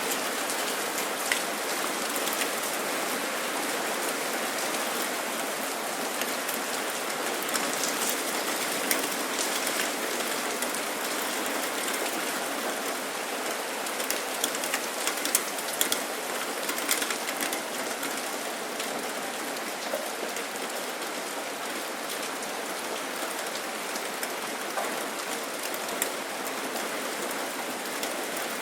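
Steady rain falling: an even hiss with scattered sharper drop ticks, a little busier in the middle.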